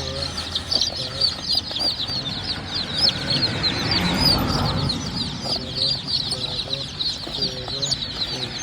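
Dozens of chicks peeping together in a dense, constant chorus of short, high cheeps. A broader noise swells under it around the middle.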